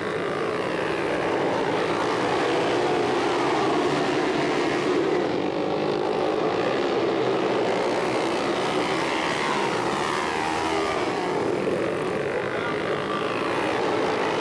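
Several flat-track racing motorcycles running together in a heat race, their engines overlapping and rising and falling in pitch as the riders open and close the throttle.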